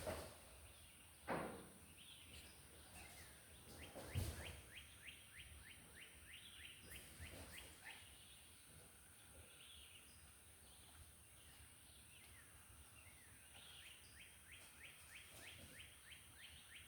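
Faint outdoor quiet in which a bird gives a trilled call of quick repeated high notes, about five a second, twice: once for about four seconds and again near the end. Two short knocks come early, the second the loudest sound.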